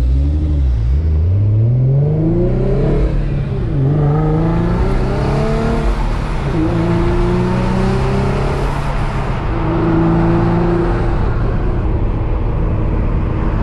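Infiniti G35 coupe's twin-turbocharged VQ35DE V6 with a Motordyne exhaust, heard from inside the cabin, accelerating hard through the gears. The engine pitch climbs, drops at an upshift about three and a half seconds in, climbs again, and drops at two more shifts around six and nine seconds in, then holds steadier.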